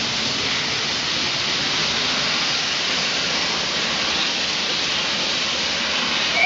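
Steady hiss of escaping steam from the GWR Castle class 4-6-0 steam locomotive 5029 Nunney Castle. The locomotive's steam whistle starts to sound at the very end.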